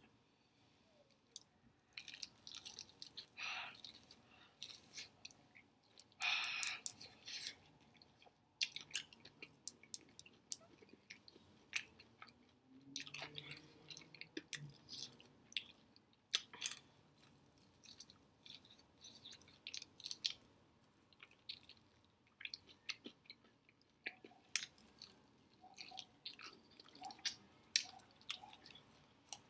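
Close-up chewing and biting of crispy fried chicken wings: irregular crunches, crackles and wet mouth sounds throughout.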